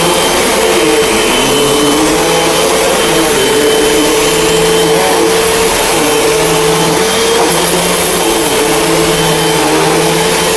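Hoover bagless upright vacuum cleaner running steadily while being pushed over carpet, its motor giving a steady tone over a loud rush of air.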